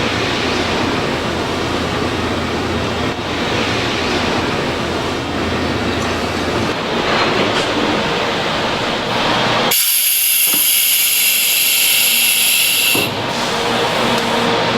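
Production machinery in a car cabin-filter factory running with a steady mechanical clatter. About ten seconds in, a loud high hiss takes over for about three seconds, then the machine noise returns.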